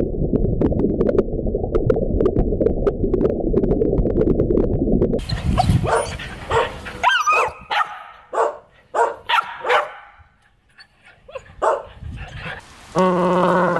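A dog barking and yipping in a run of short separate calls, after about five seconds of low, rough, continuous noise. A new drawn-out call begins near the end.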